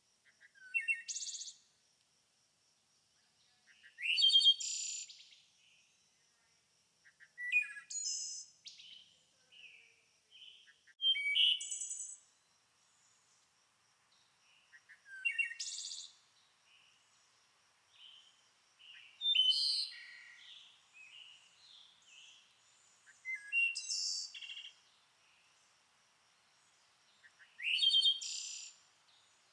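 A songbird singing: short, loud, high song phrases repeated about every four seconds, with softer chirps in between.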